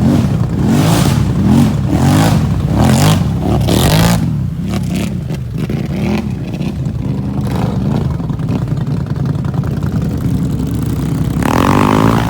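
An engine revving up and down in quick repeated surges, about two a second, then running more steadily, with bursts of hissing noise over it.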